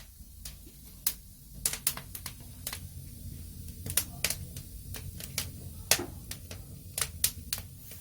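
A dozen or so sharp, irregular clicks and taps over a steady low rumble.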